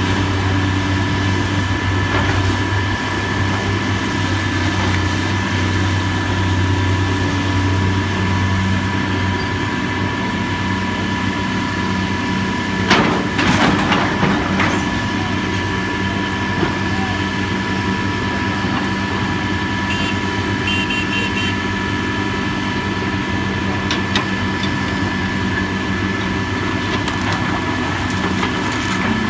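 Heavy demolition machinery's engine running steadily, with a short clatter of knocks about halfway through.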